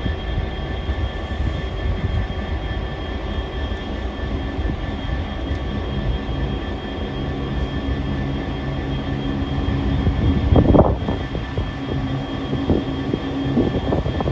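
Train running at the platform: a steady low rumble with several high steady tones over it, and a brief louder burst about eleven seconds in.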